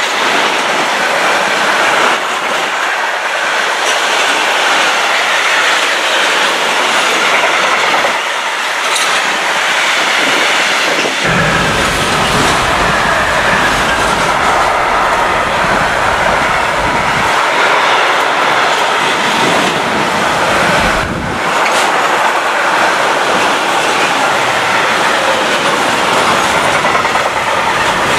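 Intermodal freight train of container flat wagons passing close at speed: a steady, loud rush of steel wheels on the rails and rattling wagons. A deeper rumble swells in and out from about a third of the way through.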